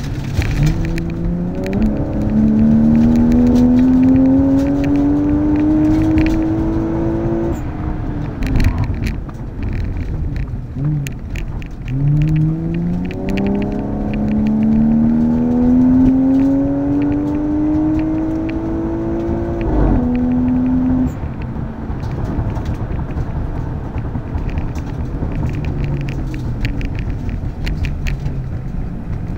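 Toyota Soarer's 1JZ-GTE twin-turbo straight-six heard from inside the cabin, pulling hard under full throttle. The revs climb twice in long rising runs, each cut off sharply, the second about twenty seconds in. After that it runs at lower revs with road and cabin noise.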